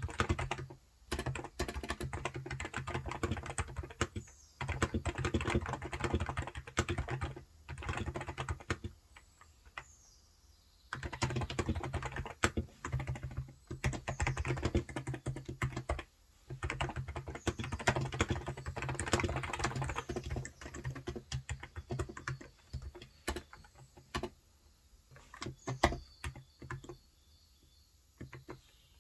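Typing on a Cox Endeavor electro-capacitive (non-contact) 35 g tenkeyless keyboard: runs of quick keystrokes broken by short pauses, growing sparser near the end. Faint bird chirps come through a few times.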